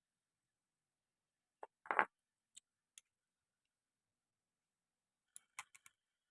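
Motorcycle gearbox parts being handled: metal parts knocking and clicking against each other, with a louder knock about two seconds in, a couple of light clicks after it, and a quick run of clicks near the end, between near silence.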